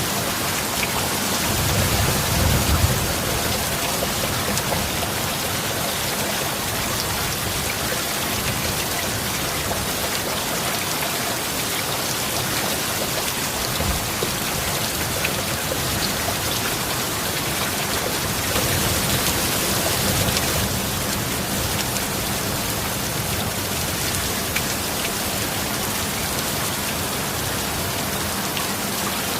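Steady heavy rain, with a low rumble of thunder about two seconds in and a brief swell in the rain around twenty seconds in.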